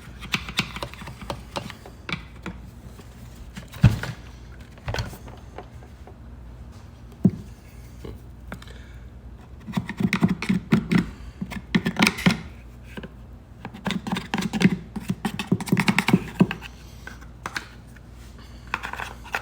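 Hands and tools working over a Stihl MS290 chainsaw as it is cleaned: scattered clicks and rattles, a sharp knock about four seconds in and another a few seconds later, then bursts of rapid clicking and scraping through the second half.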